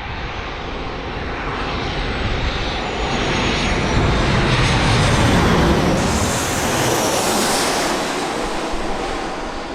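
Boeing 737-800 jetliner on short final to land, its CFM56 jet engines swelling to a loud peak about halfway through and then fading, with a thin high fan whine over the roar.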